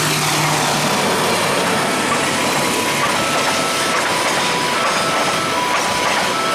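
Train passing through a railway level crossing: a loud, steady rush of wheels on rail. Faint, short two-pitch tones of the crossing's warning signal sound behind it on and off.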